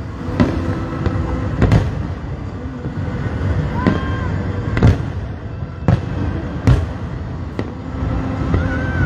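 Aerial fireworks shells bursting: a string of sharp booms at uneven intervals, about one a second, over a steady low background din.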